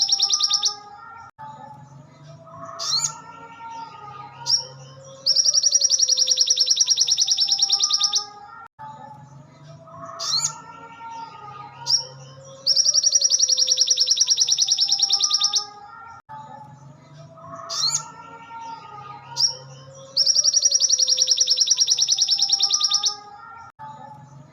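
Crimson sunbird (sogon, sogok ontong) song, looped as a training recording: a loud, very rapid high trill of about three seconds, repeating roughly every seven and a half seconds, with quieter chirps and warbles between the trills.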